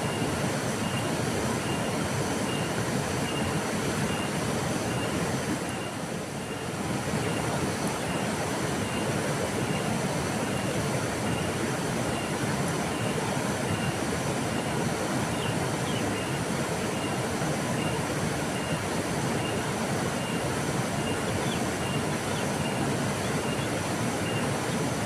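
Flowing river water: a steady, dense rushing with a brief softer dip about six seconds in.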